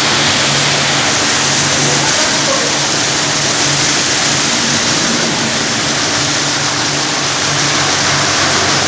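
Automatic car wash spraying water over a van: a loud, steady hiss of water jets, with a low steady hum underneath.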